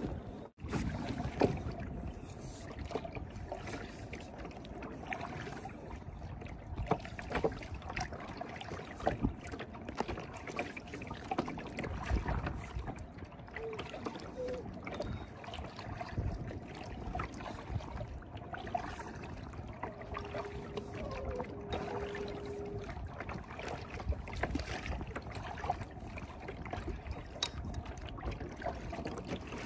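Water ambience around a kayak, with irregular small splashes and knocks and wind on the microphone. A faint held tone comes in about twenty seconds in.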